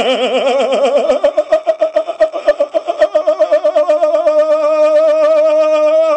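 A person's voice holding one long note as a novelty noise, warbling in pitch: wide, slow wobbles at first that quicken into a fast, shallow flutter and then settle into a steady tone near the end.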